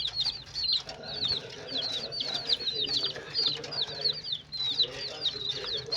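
A flock of chickens calling: a constant run of short, high, falling peeps, several a second, over lower clucking.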